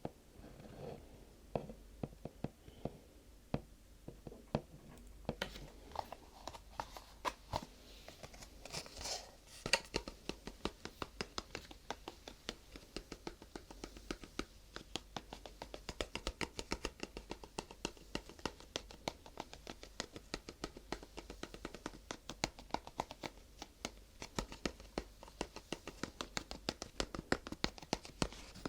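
Fingertip tapping and scratching on ASMR objects: scattered taps and a brief scratchy rustle, then, about ten seconds in, a fast, even run of light taps at several a second that carries on.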